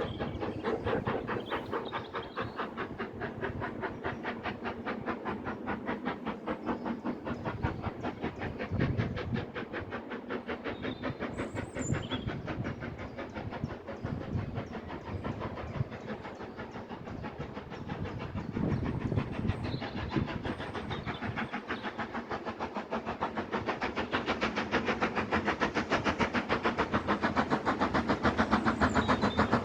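Train running with a fast, even rhythm of beats that grows louder over the last few seconds.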